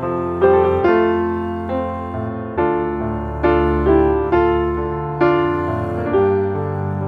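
Background piano music: slow, gentle chords struck one after another, each ringing out and fading before the next.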